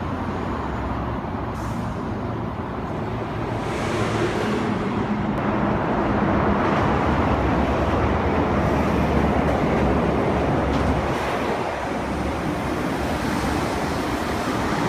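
East Rail Line electric multiple-unit trains running on the tracks below, a steady rumble of wheels on rail and motor noise. It grows louder about four seconds in and eases a little near the end as a train passes beneath.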